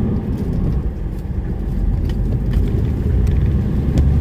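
DAF lorry's diesel engine and road noise heard from inside the cab while driving, a steady low rumble, with a few faint clicks.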